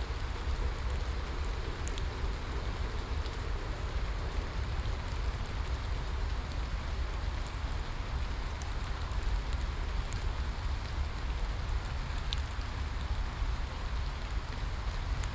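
Steady rain falling, a continuous hiss with a low rumble beneath and scattered sharp drop ticks.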